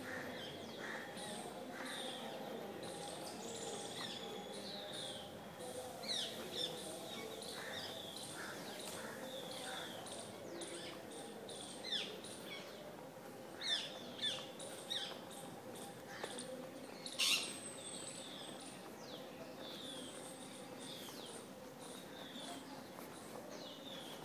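Small birds chirping over and over in short high calls, with several louder, sharper sounds around the middle. A steady low hum runs underneath.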